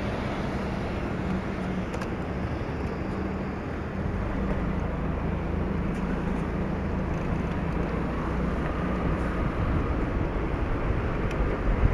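Motorcycle engine running steadily under way, with wind and road noise; the low rumble gets deeper and louder about four seconds in.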